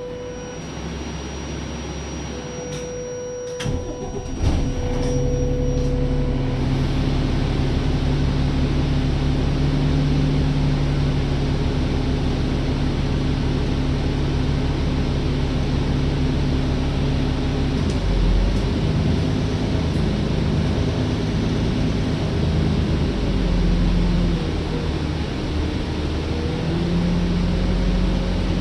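Alexander Dennis Enviro bus's diesel engine being started after failing to start first time: a low cranking rumble and a chime of repeated dashboard warning beeps, then the engine catches about four seconds in and settles into a steady idle, rising briefly a few times.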